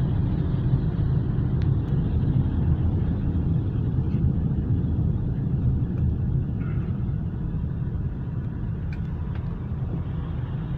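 Steady low rumble of a car's engine and tyres on the road, heard from inside the moving car's cabin, easing a little about halfway through.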